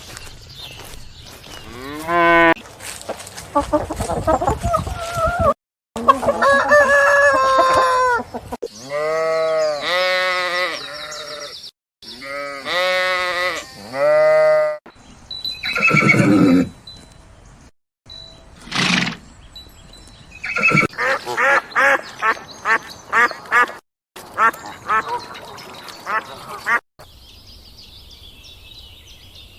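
Farm animals calling in a run of short clips cut one after another every few seconds, several of them repeated pitched calls.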